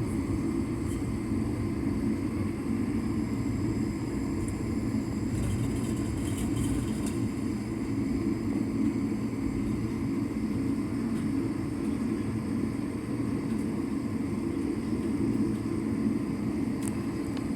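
Steady low rumble of a jet airliner's engines and airframe, heard from inside the passenger cabin.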